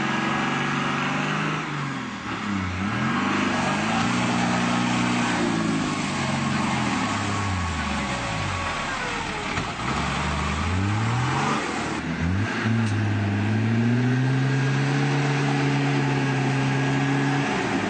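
Off-road 4x4 engine revving hard and dropping several times as the vehicle churns through deep mud, then held at high revs for the last few seconds.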